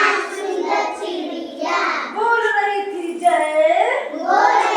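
A young child's high voice singing in a continuous sing-song, the notes bending up and down with short breaks.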